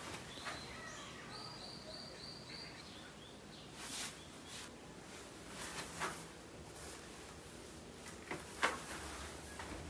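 A bird chirping, a quick run of about five short high notes a second or two in. Later come a few soft rustles or taps, the loudest near the end.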